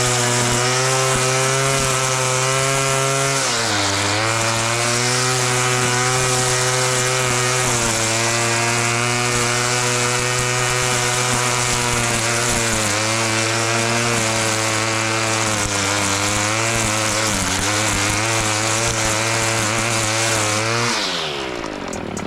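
Small high-revving engine of a grass-cutting machine running hard and steadily. Its pitch dips briefly a few times, then falls sharply near the end as the revs drop.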